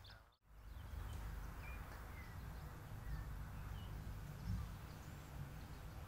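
Quiet outdoor ambience: a few faint, scattered bird chirps over a low, steady background rumble. The sound drops out for a moment just after the start.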